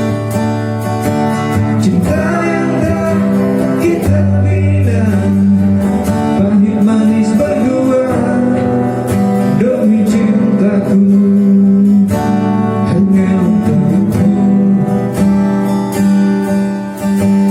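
Acoustic guitar strummed, accompanying a singing voice in an acoustic song.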